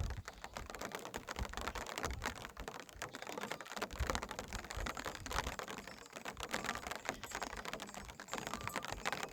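Rapid, irregular small clicks and taps, many to the second.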